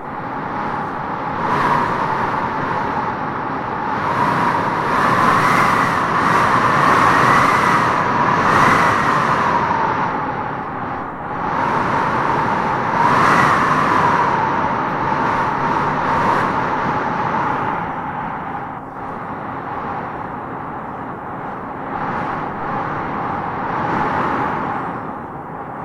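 Howling wind gusting through trees: a continuous rush with a whistling howl that swells and rises in pitch with each gust, strongest about five to nine seconds in and again around thirteen seconds, then easing off.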